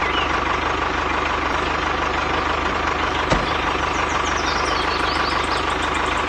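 A small engine or motor running steadily with a fast, even knock. A single sharp click comes about halfway through, and a run of short high chirps sounds near the end.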